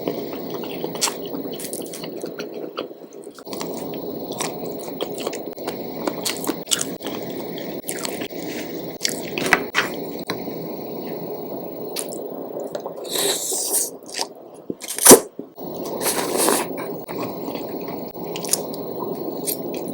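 Close-miked eating sounds: steady wet chewing and biting, with many small clicks and squishes. A sharp, loud knock about 15 seconds in is the loudest sound, and short hissy bursts come just before and just after it.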